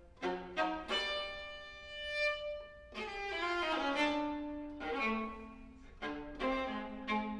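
Viola playing with piano in a live chamber performance: held bowed notes over struck chords that start sharply and die away, the chords coming about once a second.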